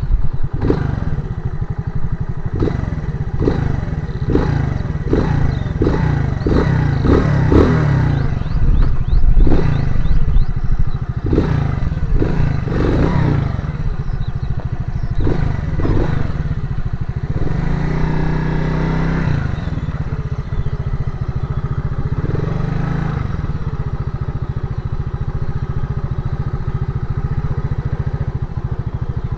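Motorcycle engine running, with many short uneven surges through the first half and a louder swell of revs a little past the middle, then running more steadily.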